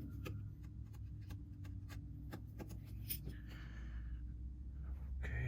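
Light, scattered clicks and taps of small repair tools and parts on an opened iPhone as its internal connectors are worked on, over a steady low hum.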